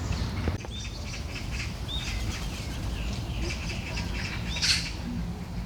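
Several birds chirping and calling in short high notes, with one louder harsh call or flutter about five seconds in, over a steady low rumble.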